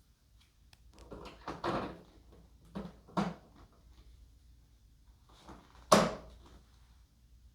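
Short knocks and clicks of model-plane parts being handled and fitted together during assembly. There is a cluster about a second in, two more around three seconds, and one sharp, loudest knock about six seconds in.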